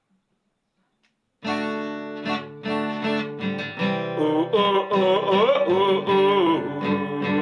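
Acoustic guitar strumming chords starts about a second and a half in, after near silence, as the introduction of a song; a few seconds later a gliding melody line joins over the chords.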